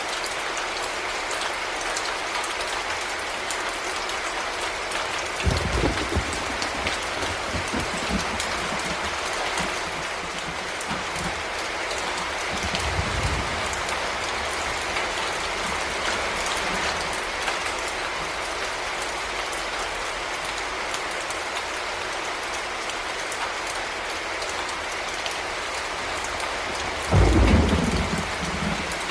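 Heavy rain falling steadily, with three low rumbles of thunder, the loudest near the end.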